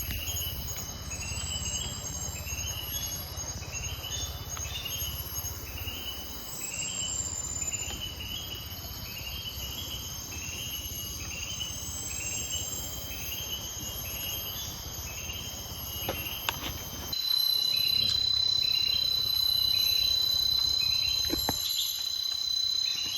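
Insects chirring in the bush, with a pulsed call repeating a little faster than once a second over a steady high hiss. About two-thirds of the way through, a louder, steady high-pitched whine starts up and holds.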